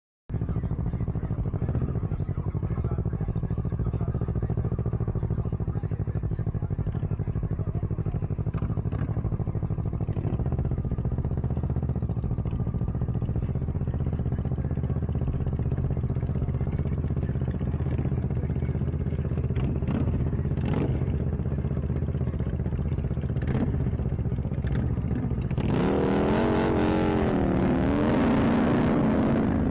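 Motorcycle engine running steadily under way, heard from onboard the bike, with scattered light clicks; the bike is most likely the rider's Kawasaki Ninja 650 parallel twin. Near the end a louder, wavering sound joins in and the overall level rises.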